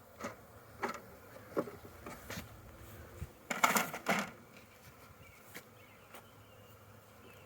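Honeybees buzzing around an opened hive, with several short knocks from handling, the loudest cluster about halfway through.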